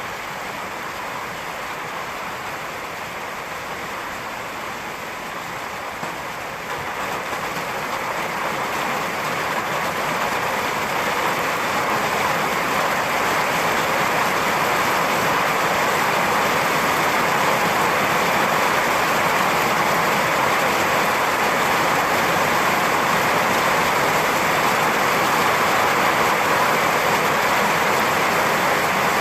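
Steady rain hiss that grows heavier from about seven seconds in, then holds as a full downpour.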